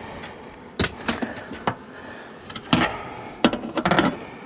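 Irregular sharp knocks and clicks of hand work on wooden wall panelling, about seven hits spread through the seconds with a cluster near the end.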